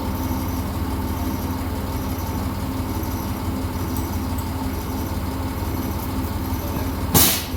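A heavy engine idling steadily, with a short, loud hiss of air about seven seconds in.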